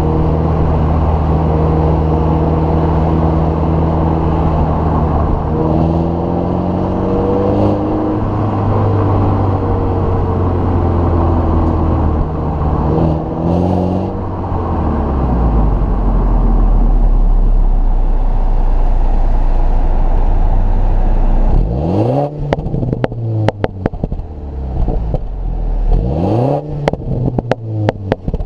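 2015 MINI Cooper S's turbocharged 2.0-litre four-cylinder engine and exhaust running, its pitch rising and falling a few times. Near the end it is blipped sharply twice, with a rapid crackle of pops from the exhaust around the revs.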